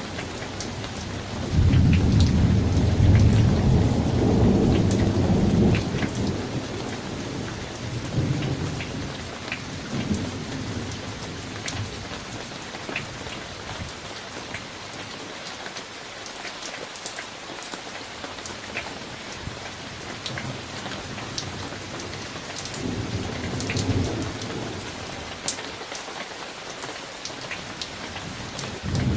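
Summer thunderstorm: steady rain with scattered drop ticks, and rolling thunder. A long, loud low rumble starts about two seconds in and lasts several seconds, fading into weaker rumbles, and another rumble comes near the end.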